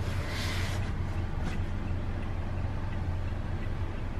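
Steady low hum with faint small ticks about twice a second, and a short rustling hiss right at the start.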